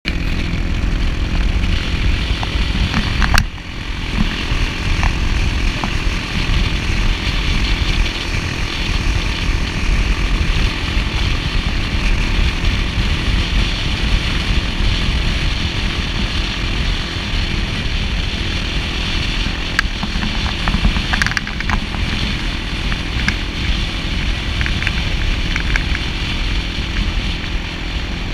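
Quad bike engine running steadily during a ride, with a brief drop in level about three and a half seconds in.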